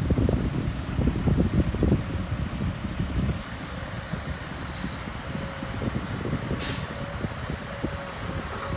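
Heavy diesel construction machinery running, louder and rougher for the first three seconds or so, then settling to a steadier, lower level. There is a short hiss about three-quarters of the way through.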